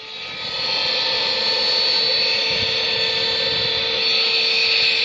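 Shop vac running with its hose pushed into the number 1 intake port of a rebuilt motorcycle cylinder head, giving a steady, high-pitched whine. It grows louder over the first second as the port seals, and the pitch picks up. That is the sign that the new intake valve is not leaking.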